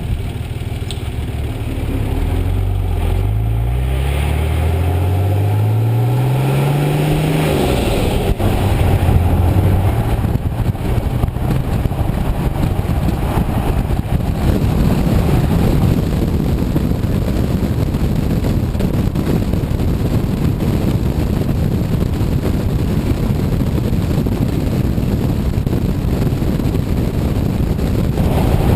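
Nissan Patrol's 4.2L TD42 inline-six diesel running through a 3-inch mandrel-bent exhaust with vortex muffler and resonator. It rises in pitch twice as it accelerates in the first several seconds, then settles into a steady drone.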